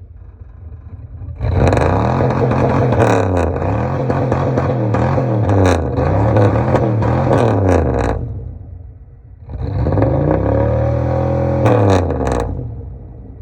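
1992 4.9-litre V8 with a muffler-delete exhaust, idling and then revved in a string of quick blips, dropping back to idle, and revved once more before settling to idle near the end.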